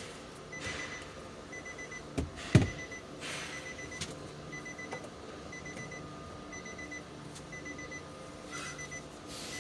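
Electronic beeping: short bursts of quick high pips repeating about once a second, like a vehicle warning chime. A single sharp knock lands about two and a half seconds in.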